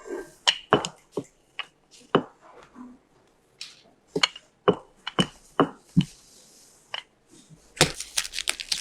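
Rolling pin knocking and clacking against the work surface while dough is rolled out into thin sheets: a string of sharp, irregular knocks, denser and busier near the end.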